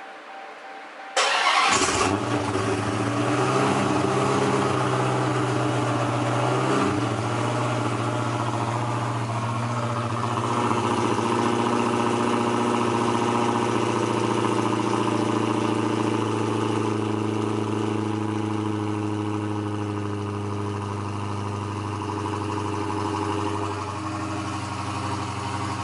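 A Dodge Charger's engine, which the owner says is better than a regular Hellcat, fires up about a second in with a loud start flare and then settles into a steady, deep idle through the exhaust.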